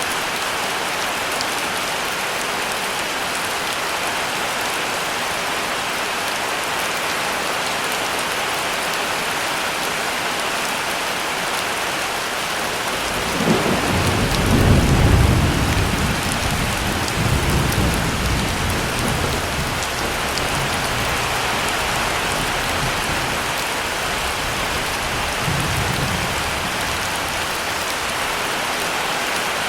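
Heavy rain falling steadily. About a third of the way in, a roll of thunder rumbles low, peaks and dies away in several rolls over some seven seconds, with a faint further rumble later.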